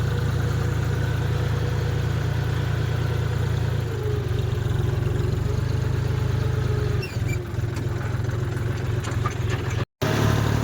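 Tractor engine running steadily, its note changing about four seconds in and again about seven seconds in. The sound cuts out for an instant near the end.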